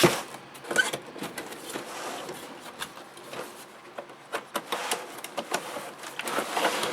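Toy packaging being handled and opened: irregular rustling, scraping and small clicks.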